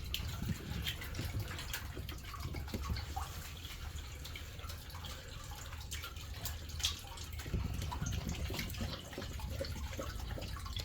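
Water trickling and dripping over rocks in a cave, with scattered drips over a steady low background.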